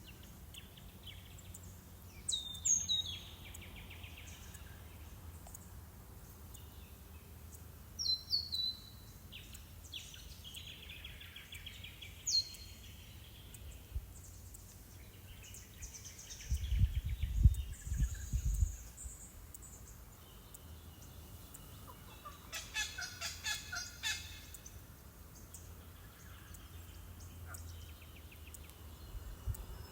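Wild Australian forest birds calling: sharp, high, downward-sweeping calls about 2, 8 and 12 seconds in, each followed by softer warbling chatter, then a rapid rattling run of notes about three quarters of the way through. A short low rumble of wind on the microphone comes a little past the middle.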